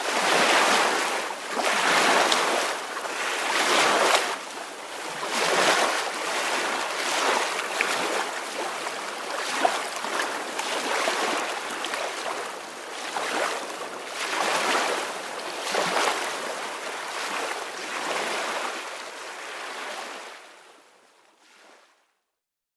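Small ocean waves washing ashore in a steady series of soft swells and ebbs, fading out near the end.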